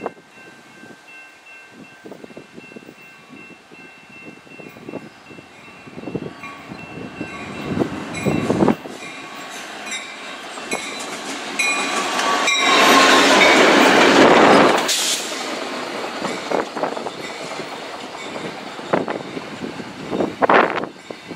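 Union Pacific diesel locomotives approaching over a road grade crossing, the crossing bell ringing as a repeated high tone early on the approach. The engines and wheels grow louder to a loud rush a little past the middle that cuts off abruptly, followed by scattered short bursts of rail noise.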